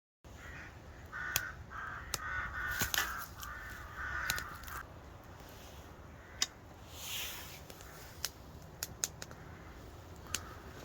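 A crow cawing in a quick run of calls over the first five seconds, with sharp pops and cracks scattered throughout that fit a wood campfire burning.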